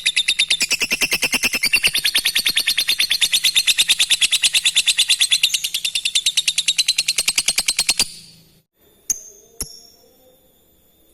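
Lovebird singing its long 'ngekek' chatter: a rapid, even run of high, sharp chirps that stops suddenly about eight seconds in, followed by a few single high chirps.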